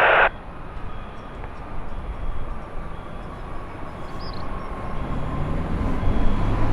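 A low engine hum with a steady pitch, growing louder from about five seconds in, over outdoor background noise.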